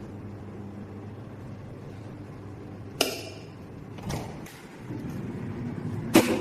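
Electric fan motor humming steadily, with a sharp knock that rings briefly about three seconds in, a few softer clicks, and a loud click near the end. After the knock the hum settles at a slightly higher pitch.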